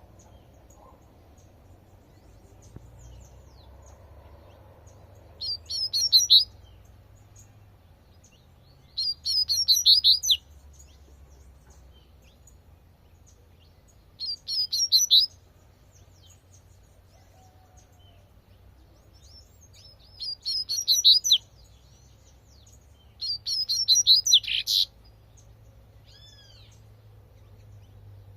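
Double-collared seedeater (coleirinho) singing its 'tui tui' song: five short phrases of rapid high notes, each about a second long, repeated every few seconds.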